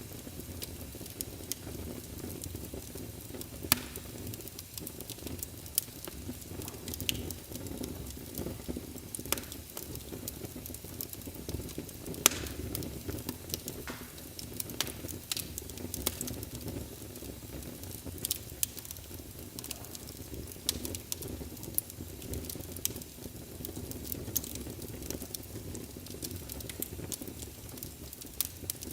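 Fire in a fireplace crackling, with a steady low rumble under irregular sharp pops and snaps, a few of them louder than the rest.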